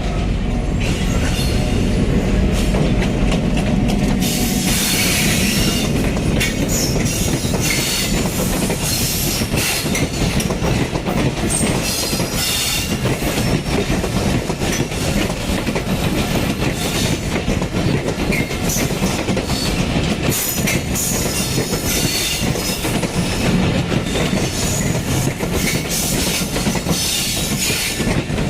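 Tungipara Express passenger train running on the rails: a steady rumble with the wheels clattering over the rail joints and stretches of higher metallic screech from the wheels.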